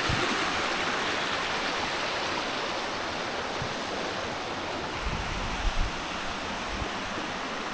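Waterfall water rushing over rocks, a steady even hiss, with a few dull low bumps about five to six seconds in.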